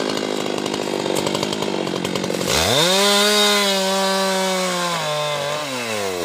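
Husqvarna two-stroke chainsaw cutting teak wood. Its engine note is rough and lower at first, rises sharply about two and a half seconds in and holds high and steady, then drops again near the end as it bites back into the wood.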